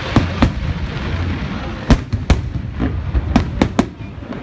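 Fireworks display: aerial shells bursting with about seven sharp bangs, two near the start, two around two seconds in and three in quick succession just past three seconds, over a steady rushing noise.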